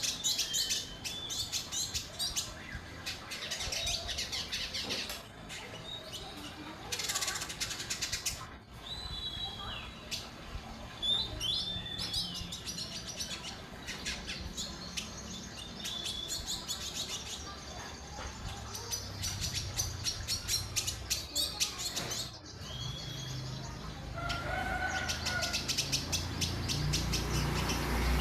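Indigo bunting singing: short slurred whistles, many bending downward, mixed with bursts of rapid dry ticking, repeated throughout.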